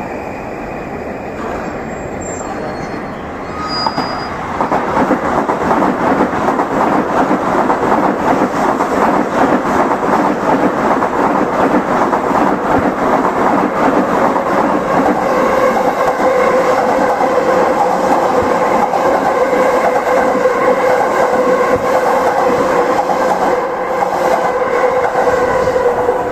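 Electric trains passing close on adjacent tracks: a Tokaido Shinkansen N700-series set and a commuter train. Steel wheels rattle over the rails, swelling up about four seconds in and staying loud. From about halfway, a steady whine at several pitches joins in.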